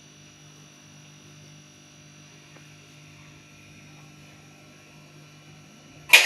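A steady low electrical hum. Near the end, a sudden loud burst of noise breaks in and begins to fade.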